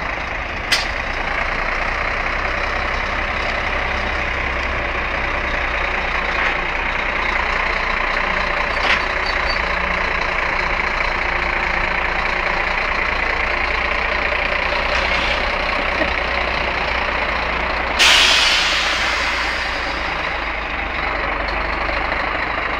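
Scania truck engine running steadily, with a few sharp clicks. About eighteen seconds in, a loud hiss of compressed air is released and fades away over a couple of seconds.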